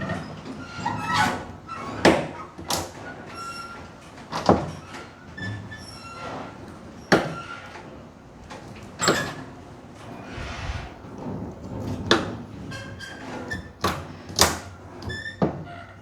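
A series of irregular sharp knocks and clanks, about a dozen, from hands-on work with toolbox and truck-bed hardware; the loudest come about 2 s in, about 9 s in and near the end.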